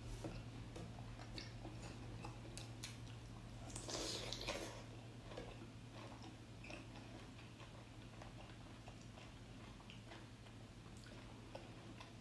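A person chewing food close to the microphone, with soft mouth clicks and a louder crunchy bite about four seconds in.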